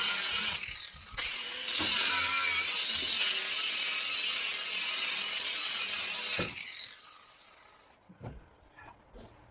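A power tool running, dipping briefly about a second in, then going on until it stops after about six and a half seconds; a few light clicks follow.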